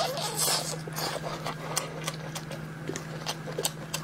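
Close-up mouth sounds of someone eating soft shellfish meat: many short, wet chewing and lip-smacking clicks at an uneven pace, over a steady low hum.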